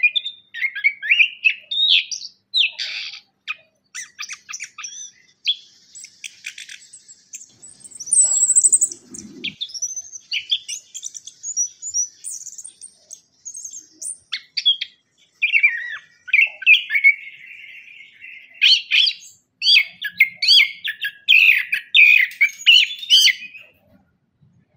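Chestnut-capped thrush (anis kembang) singing a long, varied song of quick whistled phrases and chattering runs, with a high, continuous warble in the middle stretch.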